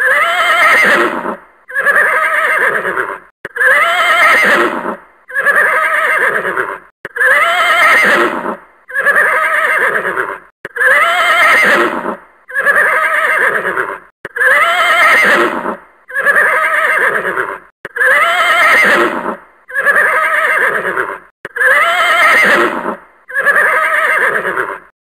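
Horse whinnying: the same high, quavering whinny repeated about fourteen times, one call every couple of seconds with short gaps between.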